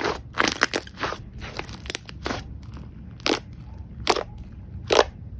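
Slime being squeezed and pressed by hand, crackling and popping: quick clusters of crackles in the first two seconds, then three separate sharper pops less than a second apart.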